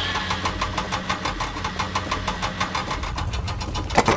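A vehicle engine running with a rapid, even chug of about five beats a second over a steady low hum. A sharp knock comes just before the end.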